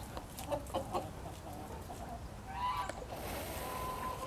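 Chickens clucking and squawking as they squabble to establish dominance, with a longer squawking call about two and a half seconds in and a high hiss from about three seconds in.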